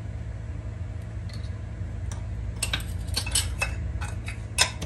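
Metal measuring spoon and sieve clinking and tapping against a mixing bowl as baking powder is sifted, a quick run of light taps in the second half, the loudest just before the end, over a low steady hum.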